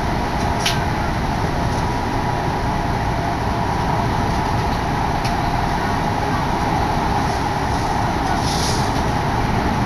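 Odakyu Odawara Line electric commuter train under way, heard from inside the carriage: a steady running rumble of wheels on rails with a constant hum and a few faint clicks.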